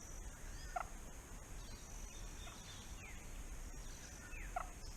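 Faint bird calls, three short notes each sliding down in pitch, about one, three and four and a half seconds in, over a steady high thin hum and a low rumble.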